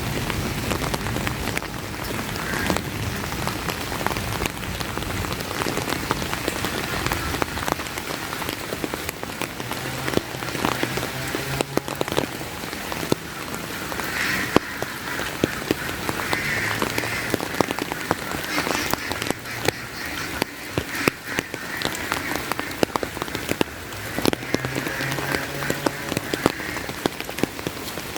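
Steady rain with many sharp taps of drops close to the microphone. A few short bursts of frogs croaking rise through it.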